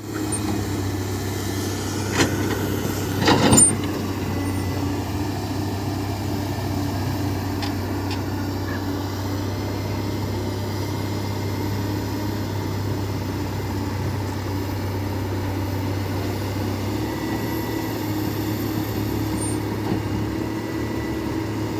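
Heavy diesel engine running steadily, with two short clattering knocks about two and three and a half seconds in.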